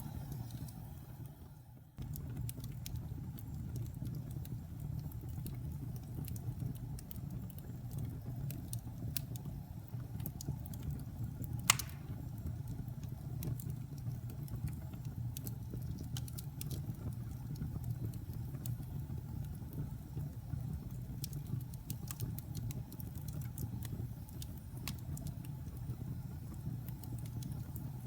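Wood fire in a fireplace crackling over a low steady rumble, with scattered sharp pops and one louder pop a little under halfway through. The sound fades briefly and cuts back in about two seconds in.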